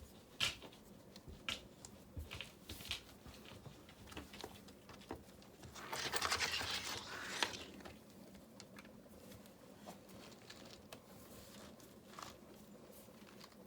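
Scattered light clicks and taps of hand work with river rocks and mortar, with one longer scraping noise lasting about a second and a half, about six seconds in.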